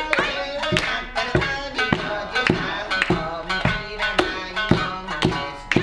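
Shamisen music: sharply plucked, ringing notes on a steady beat of about two a second, played for a geisha party game.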